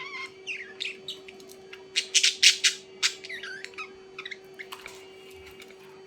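Birds calling: short chirps and quick sliding notes, with a run of loud, harsh squawks about two seconds in. A steady low hum runs underneath.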